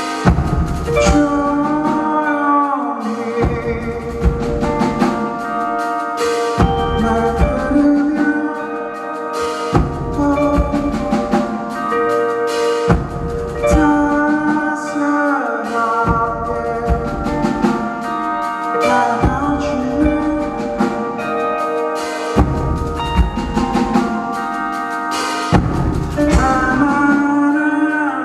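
Live rock band playing loudly: a drum kit keeping a steady beat under bass and guitars, with sliding melodic lines on top.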